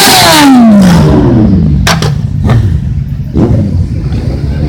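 Racing motorcycle speeding past, its engine note dropping steadily in pitch as it goes by and away. A lower engine rumble follows, with a couple of sharp clicks.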